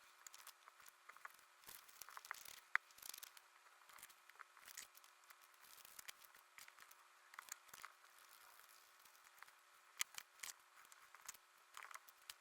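Faint paper crafting: scissors snipping paper and paper rustling, heard as a scattered run of small crisp clicks and short rustles.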